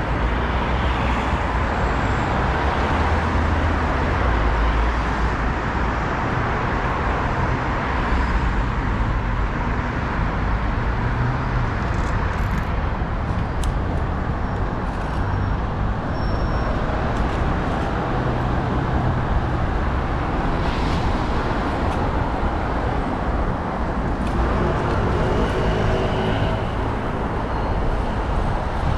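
Steady city road traffic heard from a moving bicycle, with heavy low wind rumble on the microphone. An engine note rises in pitch about 25 seconds in.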